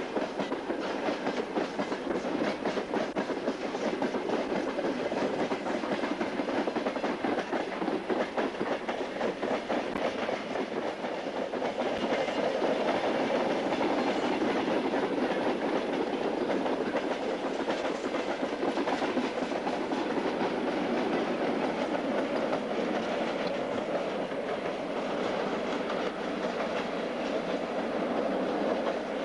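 Long freight train of open-top wagons rolling past on broad-gauge track, the wheels clacking steadily over the rail joints.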